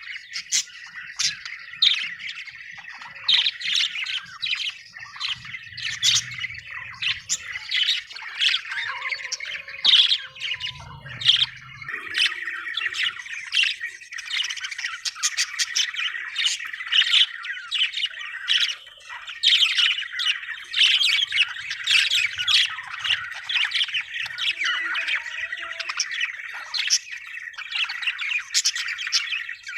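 Budgerigars chirping and squawking: a dense, continuous stream of short, high chirps with no pause.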